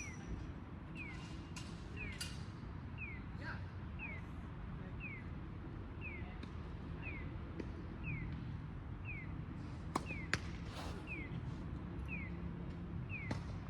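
A short, high, falling chirp repeats evenly about twice a second throughout. Over it come scattered sharp knocks of tennis balls being struck, the two loudest close together about ten seconds in.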